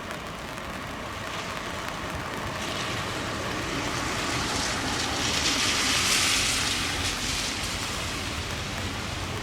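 Heavy rain falling steadily, with the hiss of a vehicle passing on wet ground that swells to a peak about six seconds in and then fades.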